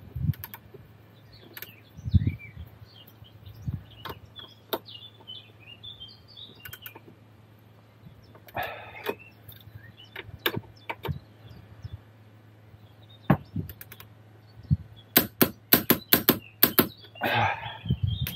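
Hand tools and parts clinking and knocking during work on a car's front suspension, with a quick run of rapid clicks near the end. Birds chirp faintly early on, over a steady low hum.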